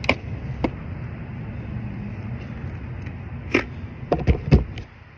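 Motorcycle engine idling steadily, with several sharp clicks and knocks over it. The sound cuts off suddenly near the end.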